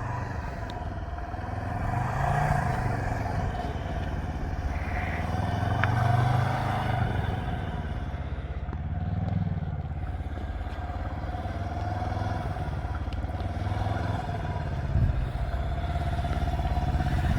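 Can-Am Ryker 600's Rotax two-cylinder engine running under way, rising in pitch and easing off in several swells as it is given gas, over a steady low drone.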